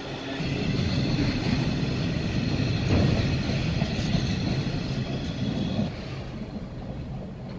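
Freight train of DB Cargo bogie hopper wagons running through on the main line: a steady noise of wheels on rails with a faint high whine, dropping off about six seconds in as the last wagon passes.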